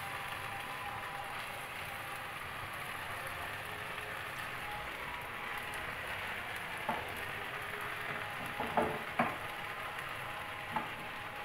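Steady sizzle of a maize-flour roti (makki ki roti) frying in oil and ghee on a hot tawa. A few light knocks come in the second half.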